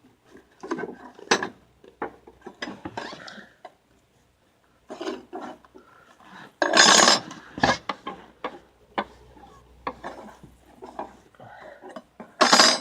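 Metal clutch steels and friction plates clinking and scraping as they are handled and set into a TH350 transmission case, a run of short clinks with a louder scrape about halfway through and another near the end.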